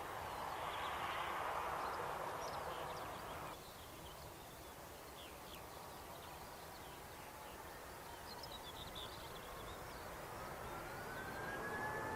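Jet aircraft noise that stops abruptly about three and a half seconds in, followed by birds chirping over quiet open-air ambience. Near the end a high whine rises and then holds steady as a jet engine spools up.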